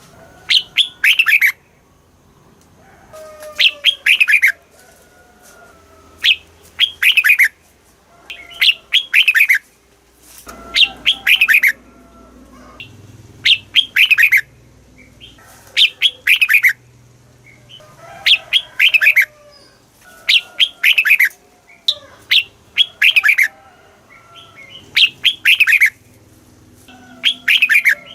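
Red-whiskered bulbul singing: short bright phrases of quick, falling whistled notes, repeated every two seconds or so.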